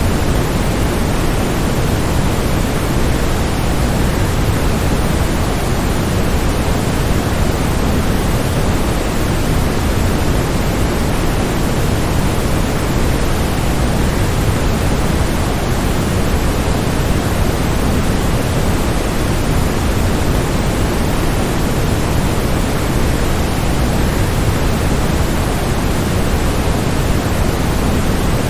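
Waterfall: a steady, unchanging rush of falling water, heavier in the low end than in the hiss above.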